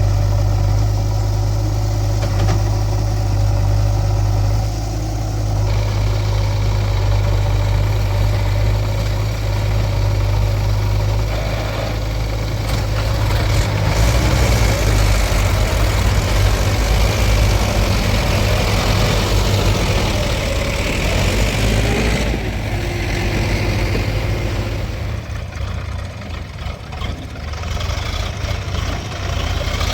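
Diesel engines of a JCB 3DX backhoe loader and farm tractors running, a steady low hum whose note shifts several times as the machines work. It is louder and rougher through the middle stretch and eases a little near the end.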